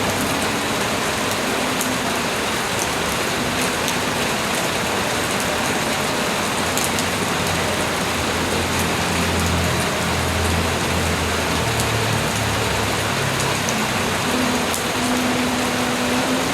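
Steady rain falling, a dense even patter with sharp individual drop hits. A faint low hum sits beneath it in the second half.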